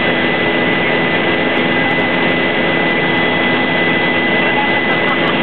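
Helicopter engine and rotors heard from inside the cabin in flight: a loud, steady noise with a thin, high whine held on one pitch.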